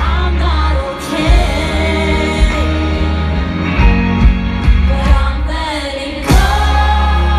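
Live pop music with a female voice singing over a band with heavy bass, heard loud and full; the sound dips briefly about six seconds in before coming back strongly.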